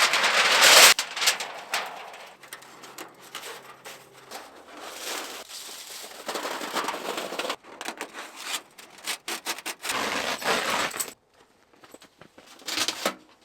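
Rubbing, scraping and rustling of camping gear being handled and moved about. The loudest scrape comes in the first second, then quieter bouts follow on and off, with a short burst near the end.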